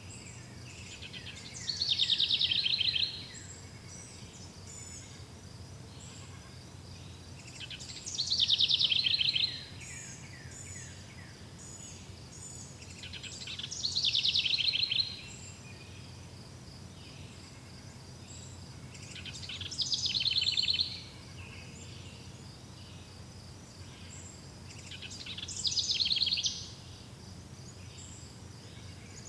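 A songbird repeating a short, fast trilled song that falls in pitch, about every six seconds, five times. Behind it runs a steady high insect drone over a low, even background rumble.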